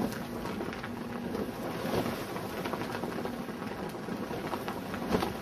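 Wind buffeting the microphone: a steady rushing noise with brief louder gusts about two seconds in and near the end.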